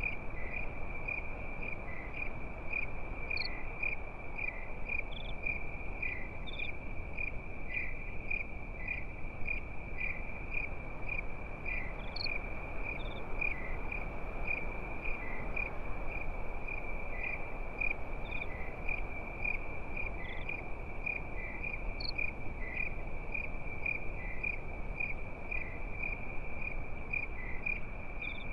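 Crickets chirping steadily at night in a fast, even rhythm, with a few higher insect chirps now and then over a low, even background hiss.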